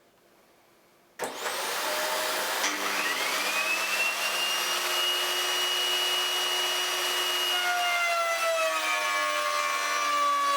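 Table router motor switched on about a second in, its whine rising as it spins up and then running steadily at speed, the pitch sagging a little near the end.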